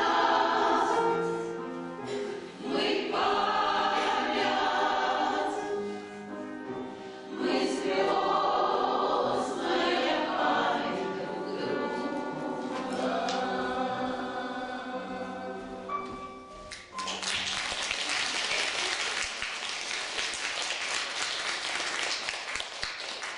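A choir singing the closing phrases of a song, ending about seventeen seconds in, followed by audience applause.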